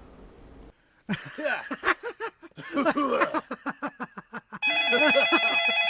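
A telephone ringtone starts about three-quarters of the way in and rings steadily, several fixed tones with a quick flutter. Before it comes a rapid run of short voice-like sounds.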